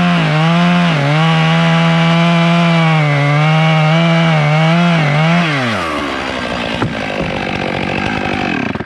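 Two-stroke chainsaw cutting through melaleuca wood at high revs, its pitch dipping briefly several times as the chain bites. About five and a half seconds in, the engine revs fall away and it runs on rough and low until it cuts off at the end.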